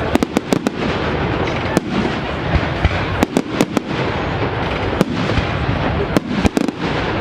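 Fireworks bursting in quick volleys of sharp bangs and crackles: a rapid cluster at the start, single bangs about two and five seconds in, and more clusters between three and four seconds and again after six seconds, over a steady background din.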